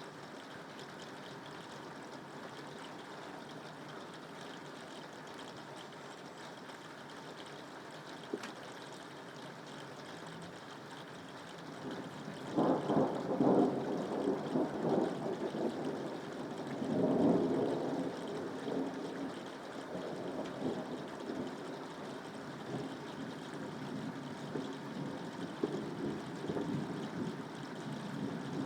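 Steady rain with a rolling thunder rumble that comes in a little under halfway through, swells twice and then trails off into a lower, uneven grumble.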